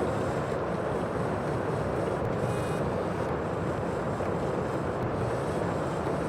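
Steady rushing noise of the sea with wind, an even wash with no distinct wave breaks.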